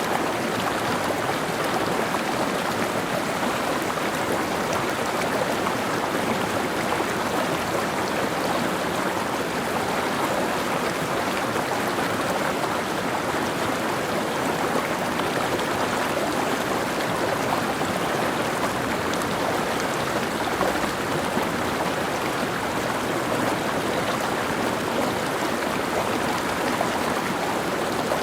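Mountain stream: water running and splashing over rocks, a steady, even rush.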